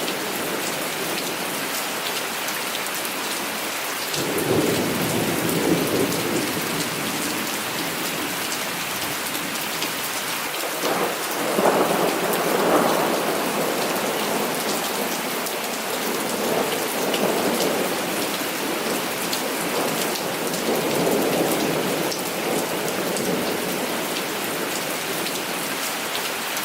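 Heavy rain falling steadily, with thunder rumbling several times: one rumble about four seconds in, a louder one around eleven seconds, then weaker rolls later on.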